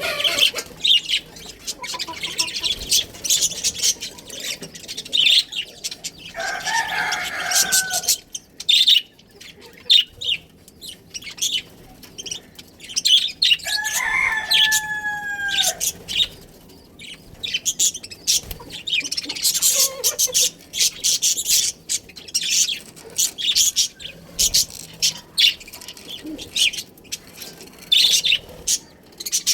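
Budgerigars chirping and chattering in a dense run of short, high chirps, with a rooster crowing twice, a short crow about seven seconds in and a longer one around the middle that falls in pitch at the end.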